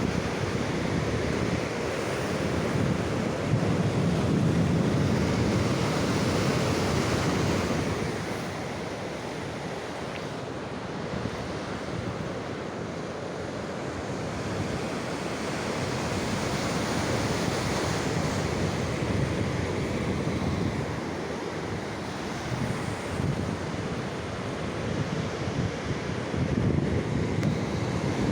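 Sea surf washing onto the shore, a steady rushing that swells and eases, with wind buffeting the microphone.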